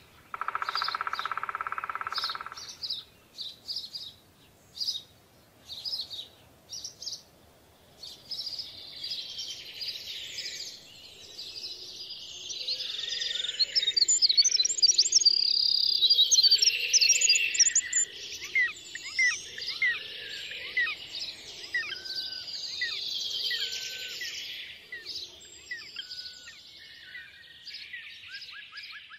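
Songbirds chirping and singing. It opens with a buzzy note of about two seconds, then single high chirps spaced about a second apart, building into a dense chorus of several birds with quick whistled glides that thins out near the end.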